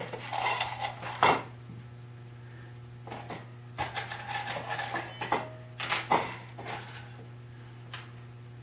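Small metal hardware and hand tools clinking and rattling as they are handled, in a few clusters of sharp clicks, over a steady low hum.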